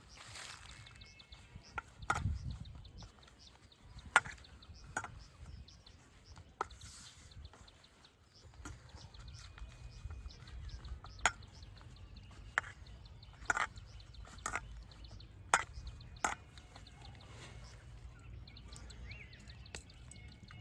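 About ten sharp knocks and taps at irregular intervals, over a low rumble, with faint bird calls now and then.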